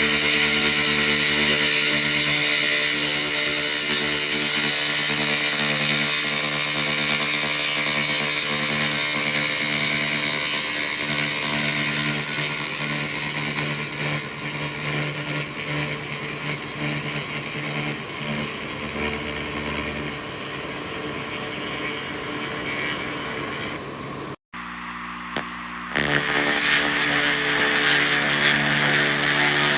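2000-watt laser rust remover running: a steady machine hum under the hissing, crackling sizzle of the beam stripping rust from metal. The sound cuts out abruptly about three-quarters of the way through and comes back louder a moment later.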